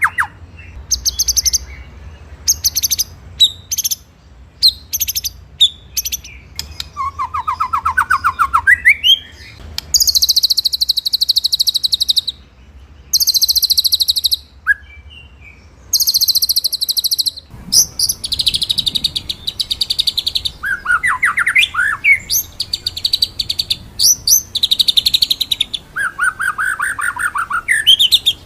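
White-rumped shama (murai batu) singing: bursts of very fast, high, rolling trills and sharp repeated notes lasting a second or two each. Lower, buzzier trills come in between, a few seconds in and again near the end.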